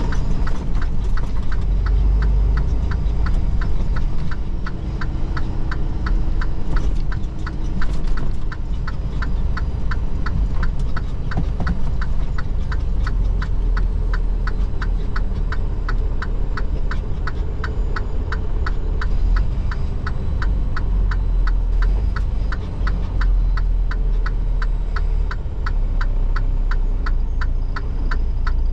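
A semi truck's turn-signal indicator clicking steadily, about two clicks a second, over the steady low rumble of the truck's diesel engine and road noise in the cab.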